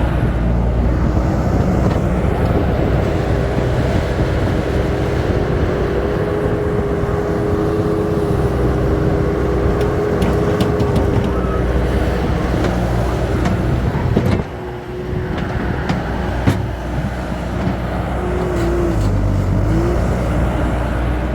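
Heavy earth-moving machine's engine running steadily under work while loading a dump truck with dirt, with a steady whining tone through the first half. The engine drops in level briefly about two-thirds of the way through, and a few knocks and clicks of machinery are heard.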